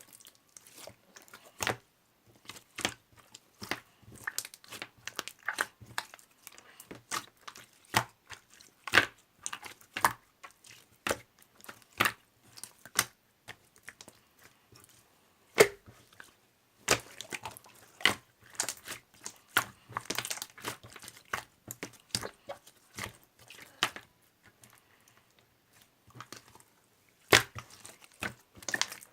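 Irregular small clicks, taps and crinkles, close up, with a couple of sharper louder clicks, about fifteen seconds in and near the end.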